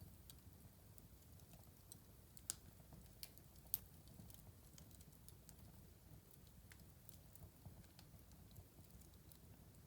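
Wood fire crackling softly: irregular small pops and snaps over a low, quiet rumble of burning, with two sharper pops about two and a half and nearly four seconds in.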